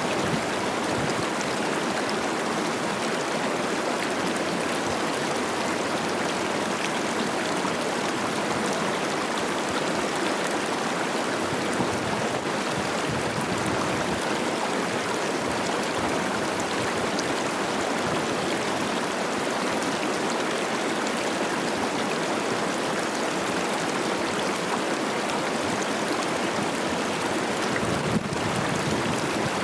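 The Cache la Poudre River running high with spring snowmelt: a steady rush of moving water. A single brief click sounds about 28 seconds in.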